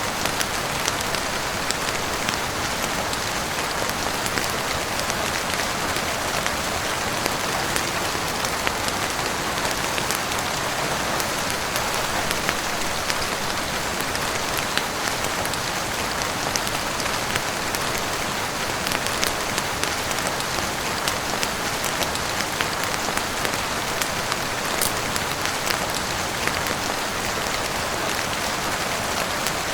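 Steady heavy rain, an even hiss with many small sharp ticks scattered through it.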